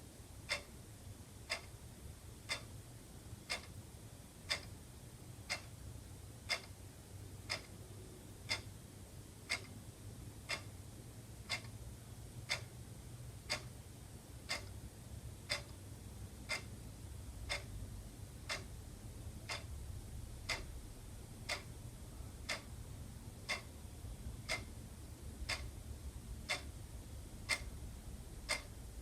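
Wall clock ticking steadily, about two ticks a second, alternating louder and softer as a tick-tock, over a faint low hum.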